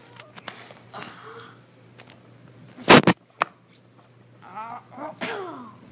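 A voice making mouth-made fight sound effects: short breathy bursts, a loud sharp one about three seconds in, then pitched sliding cries ending in a falling cry near the end.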